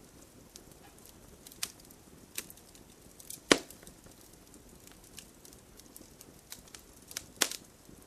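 Campfire crackling: scattered sharp pops and snaps of burning wood over a low hiss, with two louder pops, one about three and a half seconds in and one near the end.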